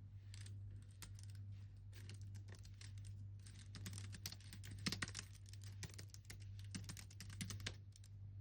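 Typing on a computer keyboard: quick, irregular runs of keystrokes that thicken into a fast burst in the middle and stop shortly before the end, over a steady low hum.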